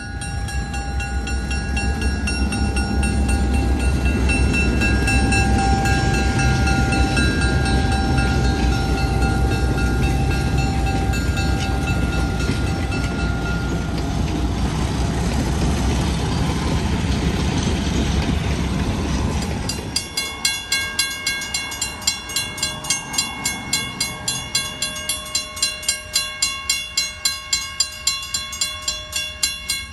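Napa Valley Wine Train's diesel locomotive passing with a loud low rumble and steady tones for about twenty seconds. Then the rumble drops off suddenly and the passenger cars roll by with a steady clickety-clack of wheels over rail joints, about two clicks a second.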